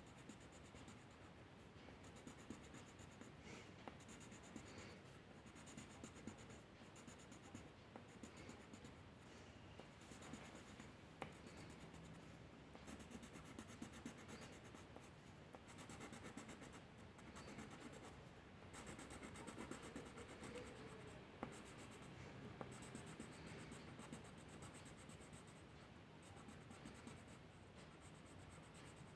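Faint scratching of a drawing tool on paper, in short irregular strokes, as a bird is sketched.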